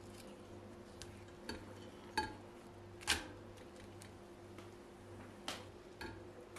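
Scattered light clinks and knocks of dishes and cutlery being handled, about six in all, the loudest about three seconds in, one ringing briefly. A faint steady hum lies underneath.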